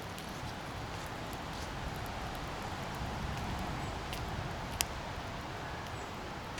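Steady rushing of the fast mountain river Katun, with two short sharp cracks about two-thirds in, the second one louder: distant shooting.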